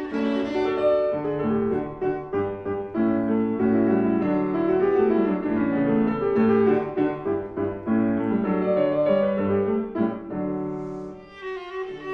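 Piano playing a flowing passage of chamber music with a viola joining in.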